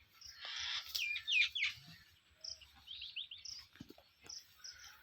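Small birds chirping: a quick run of gliding chirps about a second in, then scattered short, high notes.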